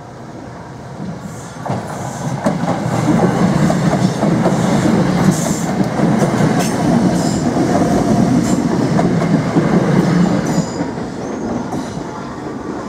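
Greater Anglia Class 321 electric multiple unit passing over a level crossing, its wheels rumbling and clicking over the rail joints. It builds up about two seconds in, stays loud while the carriages go by, and fades near the end.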